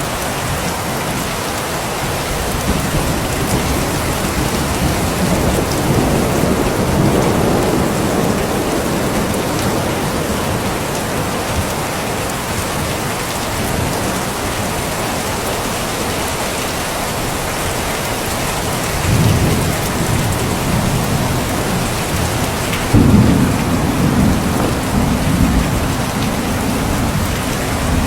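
Steady heavy rain with thunder rumbling low. A few rolls come in the first third and another in the second half, and a louder clap starts suddenly about two-thirds of the way through and rumbles on for several seconds.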